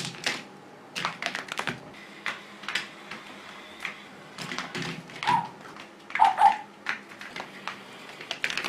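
A series of irregular light taps and clicks, with a few short squeaks about halfway through.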